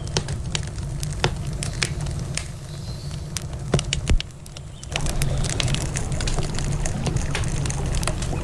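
Wood campfire crackling, with sharp pops scattered irregularly through it, over a steady low rushing background. The background drops away for about a second a little past four seconds in, then returns.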